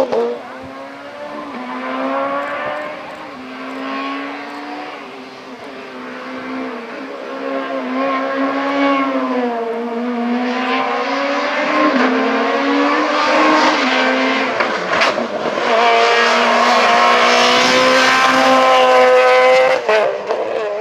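A Super 2000 rally car's engine revving hard, its note rising and falling through the gears. It grows louder as the car approaches and is loudest near the end, then drops away suddenly.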